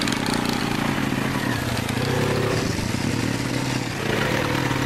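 Car engine running steadily, its exhaust giving a low, even drone.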